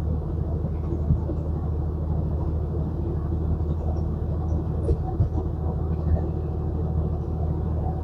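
Semi truck's diesel engine pulling steadily up a long mountain grade under load, a constant low drone with road noise.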